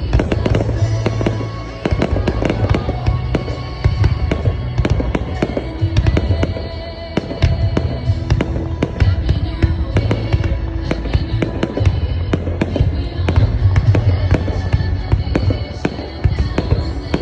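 Fireworks going off in rapid succession, a dense run of sharp cracks and bangs, over music with held low bass notes.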